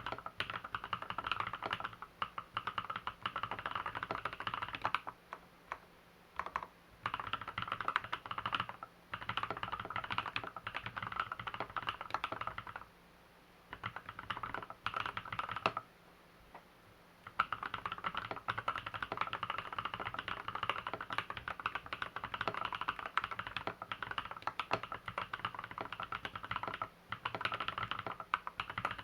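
Typing on the reworked LZ B7 custom keyboard, its lubed switches and stabilizers giving dense runs of keystrokes. The runs are broken by a few short pauses, the longest near the middle.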